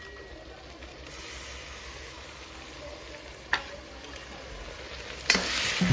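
Steady hissing noise with a single sharp click about three and a half seconds in, growing louder near the end.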